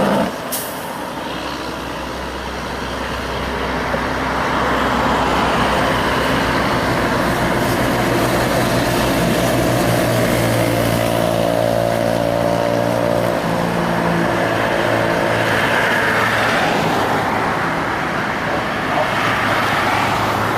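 Diesel engines of heavy trucks running past in traffic, over a steady wash of road noise. An engine's note grows louder from about four seconds in and then holds steady.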